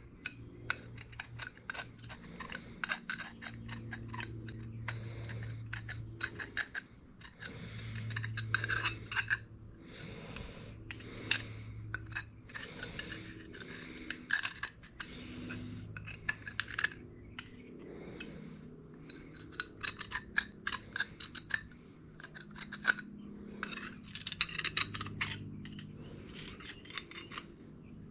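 Old silicone sealant being scraped and rubbed off an engine part's gasket surface: quick, irregular scratching strokes in bursts, with short pauses between them.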